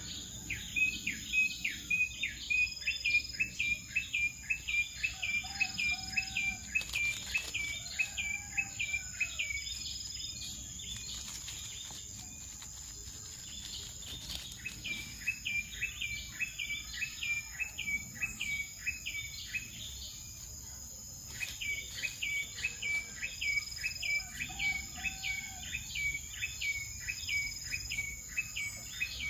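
A bird calls in runs of short, quick notes repeated a few times a second, falling silent twice for a few seconds. Under it runs a steady, high insect drone.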